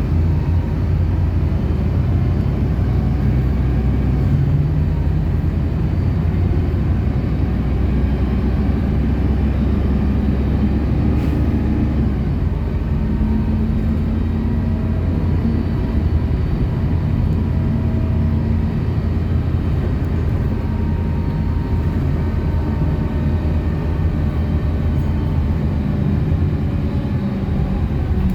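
City bus under way between stops: a steady low engine drone with road noise. Engine tones shift in pitch about halfway through as it changes speed.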